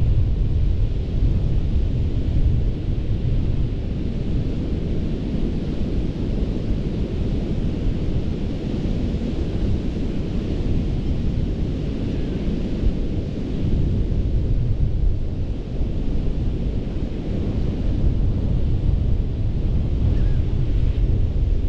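Ocean surf washing steadily onto a sandy beach, under a heavy low rumble of wind buffeting the microphone.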